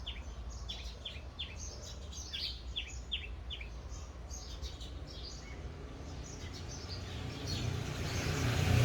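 Small birds chirping in quick runs of short, high, downward-sweeping notes that thin out after about five seconds. A motor vehicle approaches, growing louder near the end over a steady low rumble.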